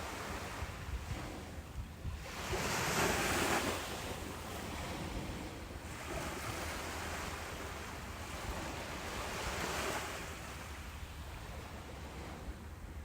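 Ocean surf breaking on a beach: a steady wash of waves, with one wave crashing louder about two and a half seconds in and a smaller swell near ten seconds, over a low wind rumble.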